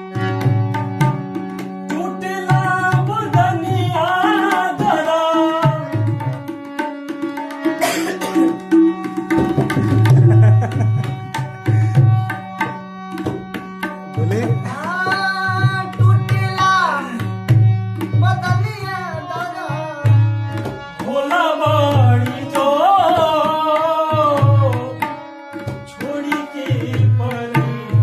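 A man singing a Bhojpuri song in phrases with pauses between, accompanied by tabla with regular deep strokes and steady held notes underneath.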